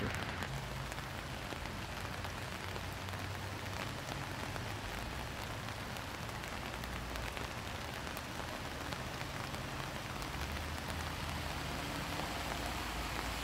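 Steady hiss and patter of rain falling on wet ground, with a faint low hum underneath.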